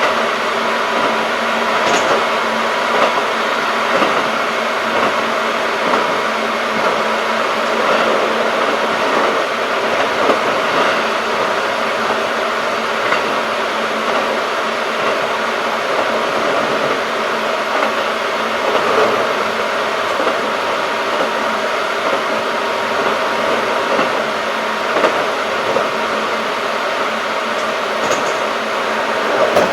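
Interior running sound of a Keikyu 1500 series field-chopper-controlled electric train cruising steadily: the even rumble of wheels on rail with a steady motor and gear hum, and a few sharp knocks from rail joints.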